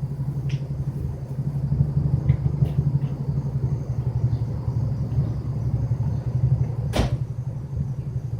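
1996 Subaru Impreza's 2.2-litre single-overhead-cam flat-four idling through a custom cat-back exhaust, with a steady low-toned rumble. A single sharp click about seven seconds in.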